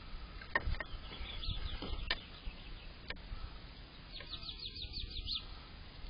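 A small bird singing: a soft run of short falling chirps about a second in, then a quick trill of about ten falling chirps about four seconds in. A few sharp clicks or knocks sound in the first three seconds.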